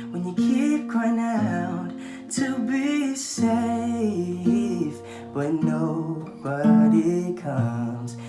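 Music: acoustic guitar accompaniment, with a voice singing wordless or unclear lines over it.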